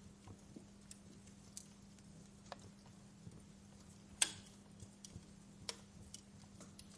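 Wood fire crackling in a fireplace: sparse, irregular pops and snaps, the loudest a sharp pop about four seconds in, over a faint steady hum.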